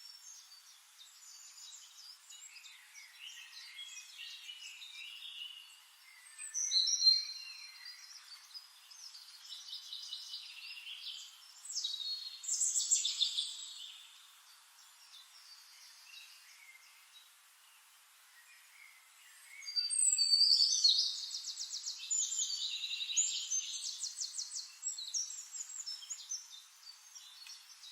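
Songbirds singing in short warbled phrases and fast trills. The song is quietest in the middle and loudest about two-thirds of the way through, where a run of quick trills repeats for several seconds.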